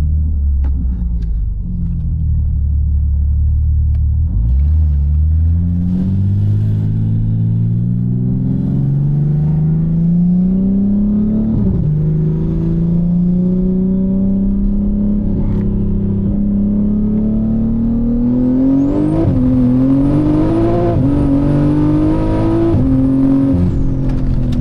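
Single-turbo BMW G80 M3's inline-six engine accelerating hard under load, its note climbing and dropping abruptly at upshifts about halfway through and twice more near the end. A high whine and hiss come in over the engine for the last few seconds.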